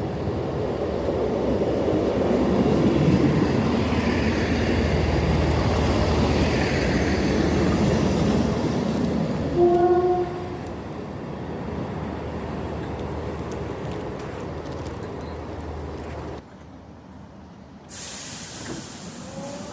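A train running through the station, a loud rumble that builds and then eases off, with one short horn toot about ten seconds in.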